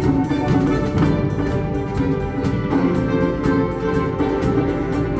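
Live concert wind band playing sustained chords over a steady pulse of short strikes, about four a second.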